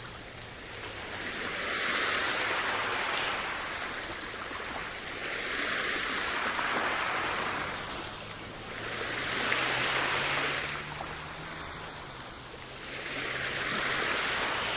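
Sea waves washing onto a beach, each one swelling and falling away, about one every four seconds.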